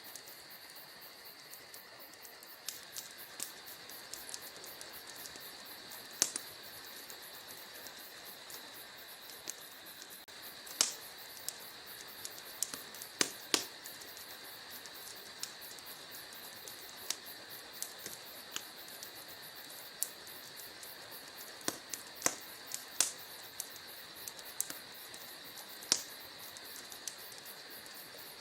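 Wood fire crackling, with irregular sharp pops and snaps, a few of them much louder than the rest. Under it runs a steady, high-pitched chirring of crickets.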